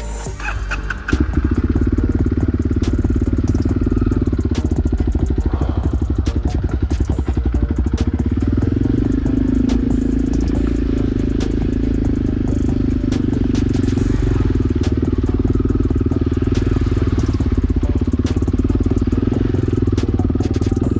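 Motorcycle engine running steadily with a fast, even firing pulse, coming in sharply about a second in.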